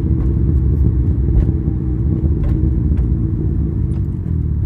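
Turbocharged Chevrolet Cobalt SS engine idling with a steady, deep exhaust rumble.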